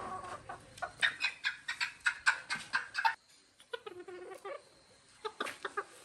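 Chickens clucking: a quick run of sharp clucks, one longer drawn-out call midway, then a few more clucks near the end.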